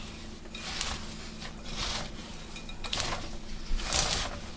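A spoon stirring dry Chinese noodles into melted candy melts in a bowl: a series of scraping, rustling strokes, roughly one every second.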